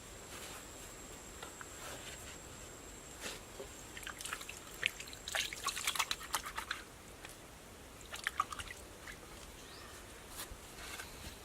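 Water dripping and trickling, in irregular clusters of drips about four to seven seconds in and again around eight seconds.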